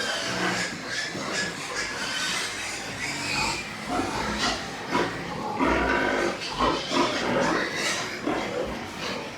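Domestic pigs calling, a steady run of short, irregular calls with a few longer, arching ones around the middle.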